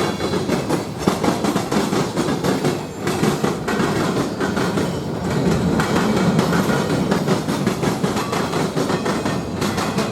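A train passing close by: a continuous rumble of wheels on rail with rapid clicking and clattering over the track.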